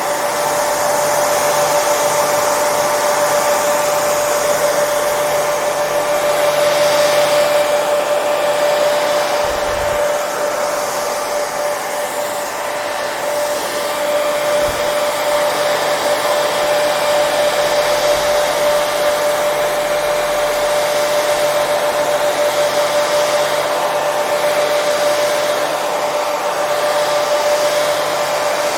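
Hair dryer running steadily: a continuous rush of air with a steady motor whine, the level swelling and easing slightly now and then.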